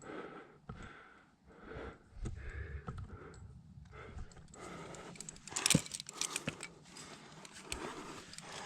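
A climber breathing hard in short, rhythmic puffs, then a flurry of sharp clicks and scrapes about five seconds in.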